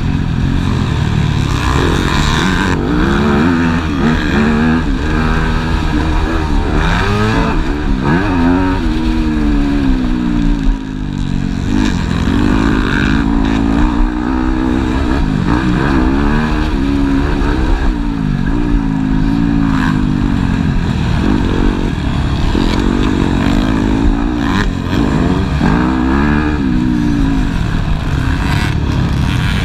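Several motocross bikes' engines revving as they ride the track, their pitch repeatedly climbing and dropping with throttle and gear changes, one bike's note overlapping another's.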